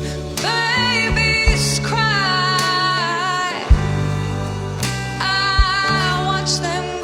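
A woman singing a slow, held melody with a band: guitar and bass underneath, with a few drum hits.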